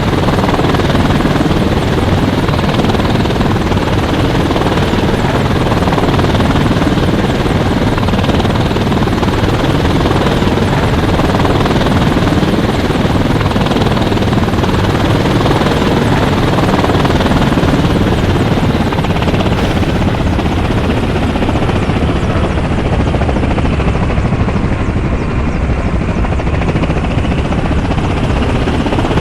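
Helicopter in flight: loud, steady rotor and turbine noise with a fast chop from the rotor blades.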